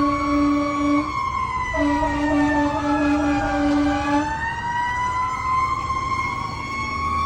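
Fire engine's Q siren winding in slow pitch glides, falling and then rising again, with a steady low horn blast ending about a second in and another from about two to four seconds.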